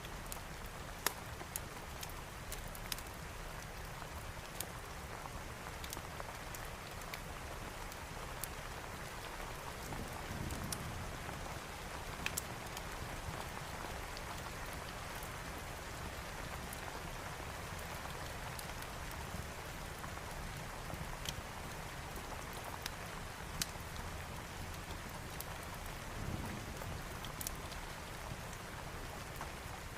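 Steady rain with scattered sharp crackles and pops from a fireplace fire. Two brief low rumbles rise out of it, about ten seconds in and again near the end.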